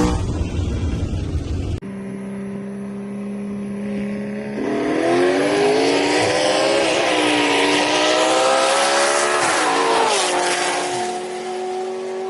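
A car engine under full-throttle acceleration in a roll race. A steady drone turns, about four and a half seconds in, into a climbing engine note with a rising rushing hiss, dropping in pitch at two gear shifts. The driver lifts off near the end and it settles back to a steady drone. A louder engine rumble in the first two seconds cuts off abruptly.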